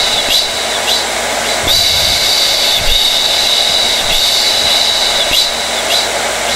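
Blow dryer running steadily: a rush of air under a high whine that wavers briefly every second or so.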